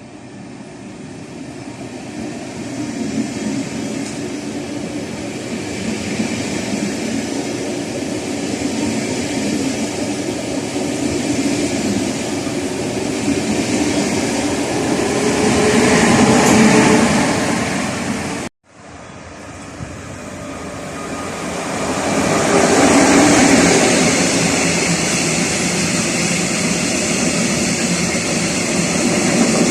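Rail vehicle passing close by, its rolling noise swelling to a peak; after an abrupt cut a second pass swells up again and holds.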